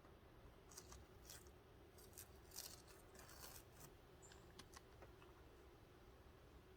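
Near silence: faint room tone with a few scattered soft clicks and rustles.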